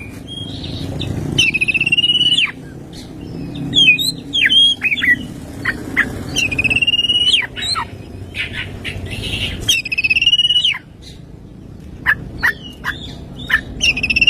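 Oriental magpie-robin singing a varied, mimicry-filled song: several held, trilled high whistles of about a second each, with quick sharp sweeping notes between them.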